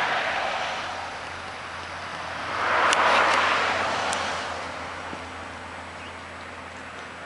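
Road vehicles passing by: the first fades just after the start, and a second swells up to a peak about three seconds in, then fades away. A steady low hum runs underneath.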